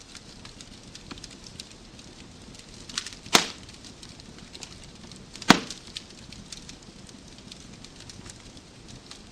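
Wood fire crackling in a fireplace: a soft steady hiss scattered with small crackles, and two loud sharp pops about three and a half and five and a half seconds in.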